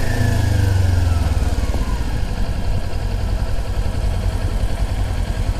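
Motorcycle engine running at low revs. It is louder for about the first second and a half, then settles into a steady idle rumble.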